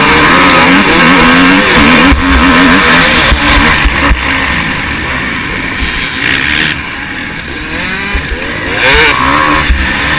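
Motocross bike engine revving hard on an onboard camera, its pitch rising and falling quickly as the throttle opens and closes through gear changes, with a few sharp knocks along the way.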